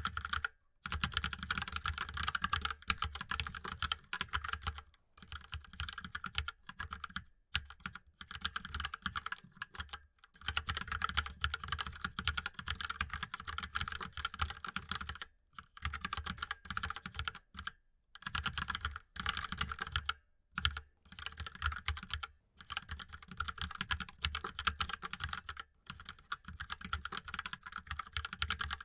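Fast typing on a mechanical keyboard: dense runs of keystroke clicks, broken by short pauses every few seconds.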